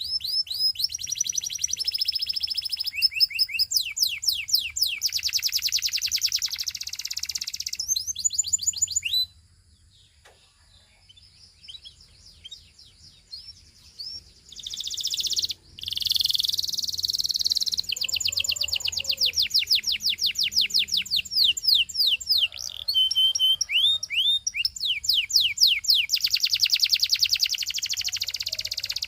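Canary singing: long runs of fast, evenly repeated high notes and trills. A pause of about five seconds falls about a third of the way in, and then the song starts again.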